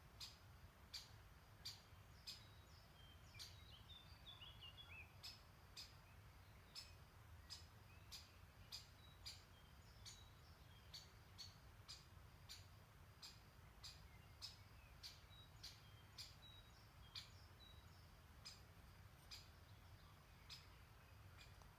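Faint birdsong: one bird repeats a short, high chirp about one and a half times a second throughout. A few seconds in, another bird sings a brief warbling phrase. Underneath runs a low, steady background rumble.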